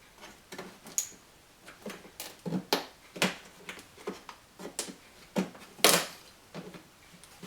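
Plastic push-pin trim clips on a car's trim panel being prised out with a button-popping trim tool: a run of irregular clicks and taps, the loudest about six seconds in.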